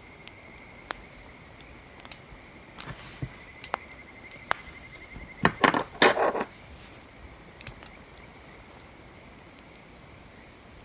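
Scattered sharp clicks and pops, with a brief clatter of small hard objects, the loudest part, about five and a half to six and a half seconds in.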